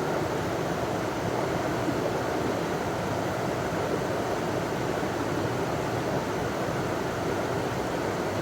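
River water running over a small waterfall: a steady, even rush.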